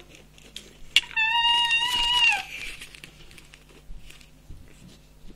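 A child's high-pitched, animal-like squeal held for just over a second, dropping slightly at the end, after a sharp click. A few faint clicks follow.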